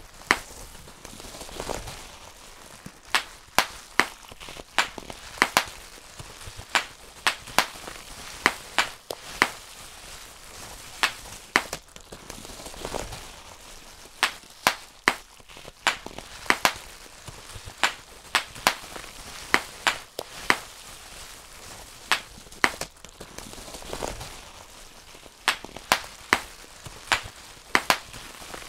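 Bubble wrap bubbles popped one at a time by hand: sharp, irregular pops, sometimes in quick pairs or runs, with short pauses between, and a soft crinkling of the plastic sheet in the gaps.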